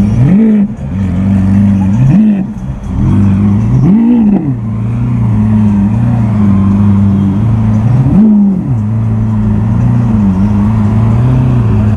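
Lamborghini Aventador's V12 engine running at a low, steady note as the car creeps forward, with four quick blips of the throttle that rise and fall in pitch, about half a second in, near two seconds, near four seconds and near eight seconds.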